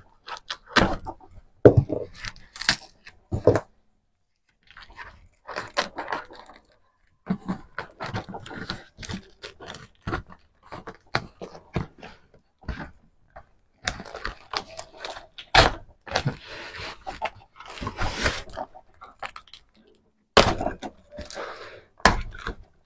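Cardboard box and packaging being handled and opened by hand: a run of taps, knocks and scrapes, with longer stretches of rustling about three-quarters of the way through.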